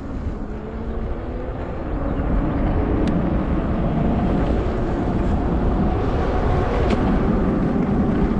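Steady low rumble of wind on the microphone and road noise from a riding e-bike, growing louder about two seconds in as the bike gets moving, then holding steady.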